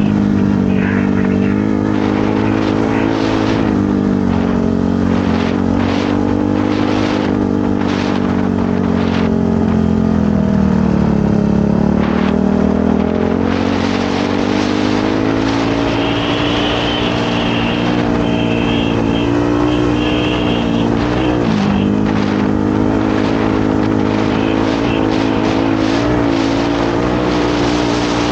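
Motorcycle engine running under way, its pitch rising and falling with the throttle: it sags for a couple of seconds near the middle and dips briefly later on. Short knocks and clicks come through over the engine.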